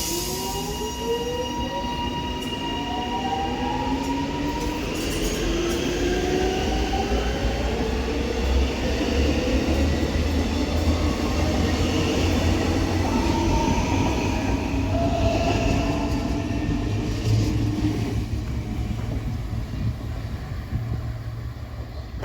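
Electric metro train running past, its traction motors giving off a whine that climbs in pitch in several stepped glides over the rumble of wheels on rail. It grows louder through the middle and then fades.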